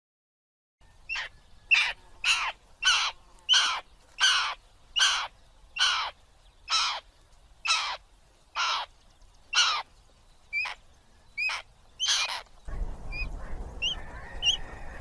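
A bird of prey calling a series of about fifteen harsh calls, roughly one every 0.7 s and spacing out slightly. Near the end the calls stop and a few short, thin high chirps follow over a hissy background.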